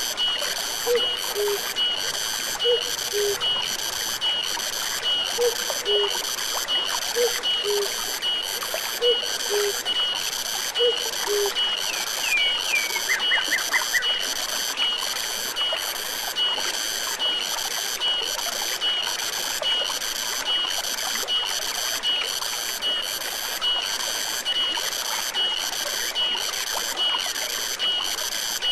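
Forest stream running steadily under animal calls: a high chirping that pulses evenly about one and a half times a second throughout, and a low two-note falling call repeating every couple of seconds until about eleven seconds in. A short run of quick chirps comes just after that.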